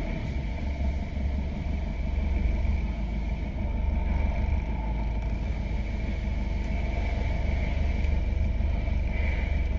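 Nissan Navara D40 diesel engine idling with a steady low rumble.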